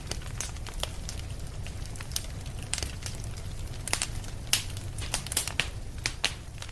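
Wood fire crackling, with irregular sharp pops and snaps over a steady low rumble; the pops come thicker and louder a few seconds in.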